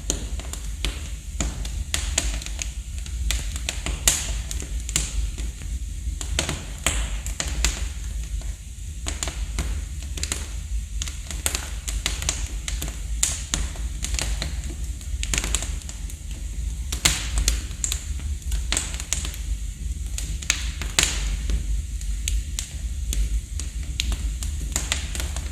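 Wood fire in a fireplace crackling, with irregular sharp pops and snaps, some louder than others, over a low steady rumble.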